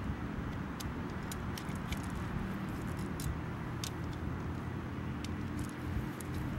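Wood campfire crackling, with scattered sharp pops, over a steady low engine-like hum.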